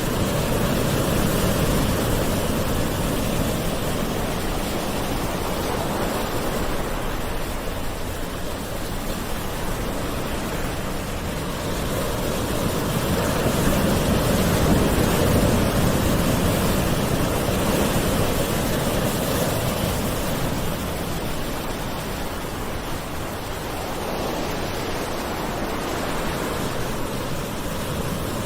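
Gentle ocean waves washing onto a shore, a continuous low rush of surf that slowly swells and eases.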